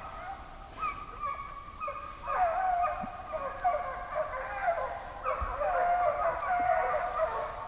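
A pack of deer hounds baying, many voices overlapping without a break as they run a deer's trail.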